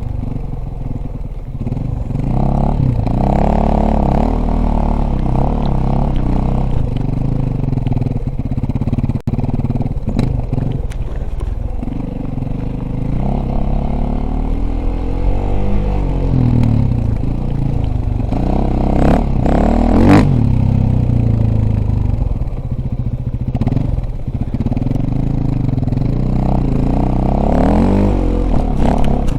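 Dirt bike engine running under throttle, its pitch rising and falling over and over as it revs up and eases off, with a few sharp knocks along the way.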